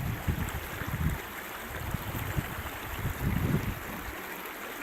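Stream water rushing steadily, with wind buffeting the microphone in low, uneven gusts that die away about four seconds in.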